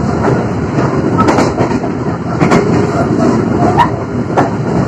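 Passenger train running, heard from inside the carriage: a steady, loud rumble of wheels on the track with sharp clicks about once a second.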